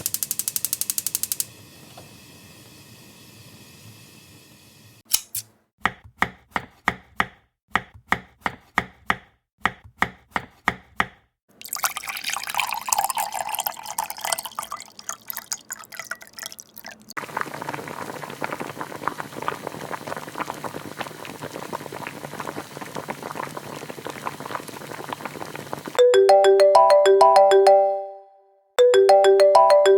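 A chain of alarm sounds: a short buzz, a run of sharp clicks about two a second, a long stretch of steady hissing noise, then an electronic ringtone tune starting near the end.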